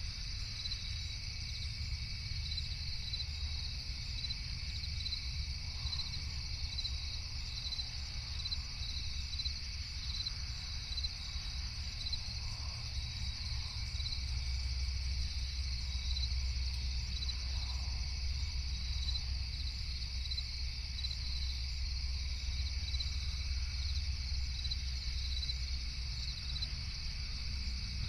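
A night chorus of crickets chirping steadily, a continuous high trill with short evenly repeating chirps, over a low steady rumble that grows slightly louder about halfway through.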